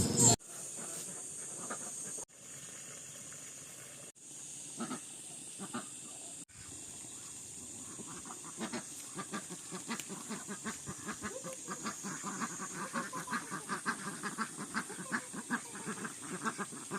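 Farm animals calling over a steady faint hiss, the sound breaking off abruptly at a few cuts early on; from about eight seconds a fast run of repeated calls builds up and gets louder.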